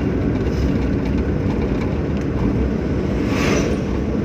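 Hyundai Santro driving along a highway, heard from inside the cabin: a steady low rumble of engine and road noise.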